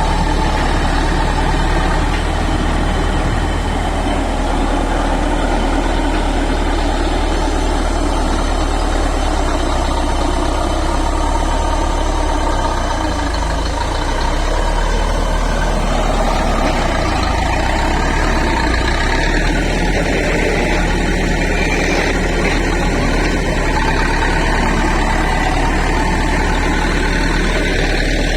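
Bulldozer's heavy diesel engine running steadily, a loud, even low rumble with no breaks.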